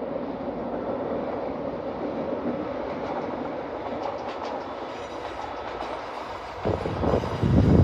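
Diesel multiple-unit passenger train passing at a distance, a steady rumble of wheels on rail. Several loud low thumps cut in near the end.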